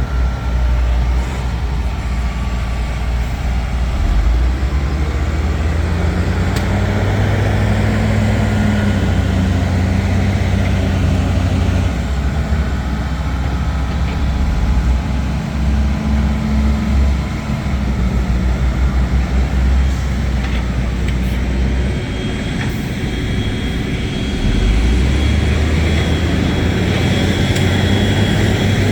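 Heavy earthmoving machine's diesel engine working under load, its pitch rising and falling as the machine pushes and moves.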